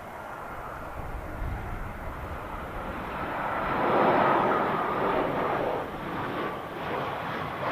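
Aircraft engine noise that swells to its loudest about four seconds in, then rises and falls unevenly.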